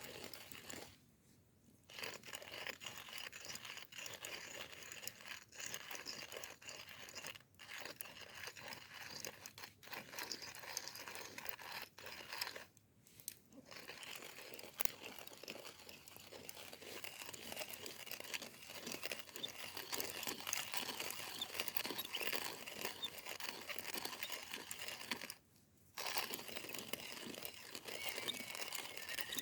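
Wood campfire crackling and popping, a dense irregular crackle that drops out briefly three times.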